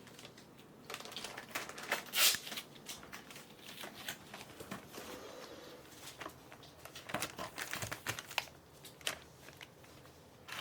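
Soft crinkling and rustling of crinkly material, coming in scattered short spells with light taps, the loudest about two seconds in.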